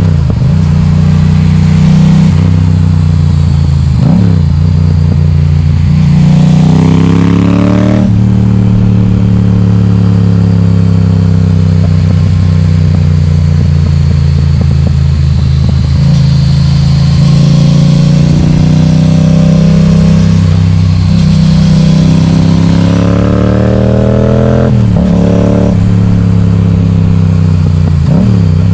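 Yamaha XSR700's parallel-twin engine through an Akrapovic exhaust with the baffle removed, loud as the bike accelerates with the pitch climbing. It drops abruptly at gear changes, about eight seconds in and twice more near the end, and falls away slowly in between as the rider eases off.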